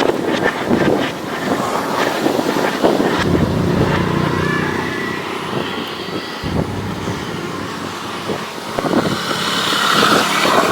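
Excavator at work: a motor running with a steady hum, over repeated clattering clicks and knocks.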